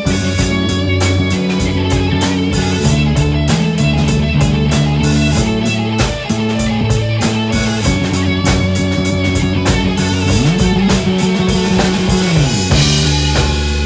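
Instrumental rock jam in A major: electric guitars, bass and drum kit playing together, with steady cymbal strokes over held low notes. About ten seconds in a low note slides up, holds for about two seconds and slides back down, and a cymbal crash follows near the end.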